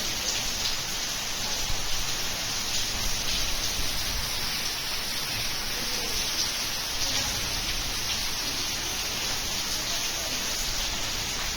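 Heavy rain falling steadily: a dense, even hiss with scattered drop impacts.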